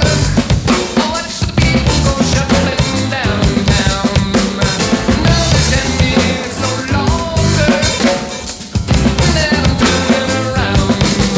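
Drum kit played along with a rock recording: bass drum, snare and rimshot hits over the track's pitched instruments, with a brief drop in level about eight seconds in before the groove comes back.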